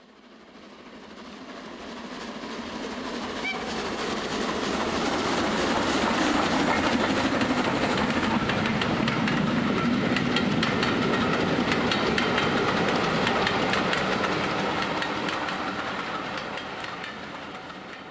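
A train running on rails, with a steady rumble and a rapid clicking of wheels over the track. It swells up over the first few seconds, holds, then fades away near the end.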